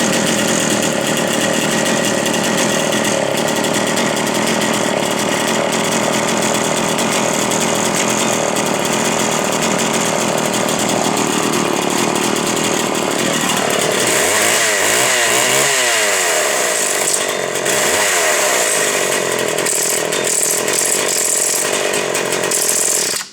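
McCulloch Super Pro 81 two-stroke chainsaw running loud and steady. In the second half its pitch swings up and down several times as it is revved, and the sound cuts off suddenly at the end.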